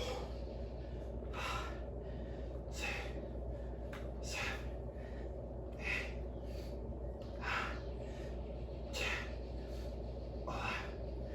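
A man breathing hard during a set of weightlifting reps: short, forceful breaths about every one and a half seconds, in an even rhythm, over a steady low hum.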